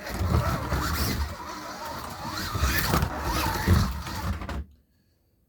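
Scalextric slot car running round a plastic track: electric motor whine rising and falling with the throttle over a rattle of wheels and guide in the slot. The sound cuts off suddenly near the end.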